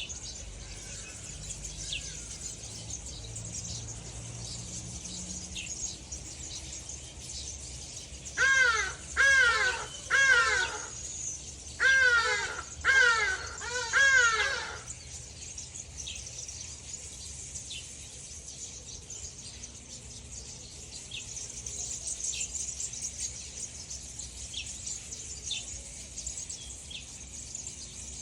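A crow cawing six times in two runs of three, harsh arching calls, over a steady high insect chorus and occasional short chirps of small birds.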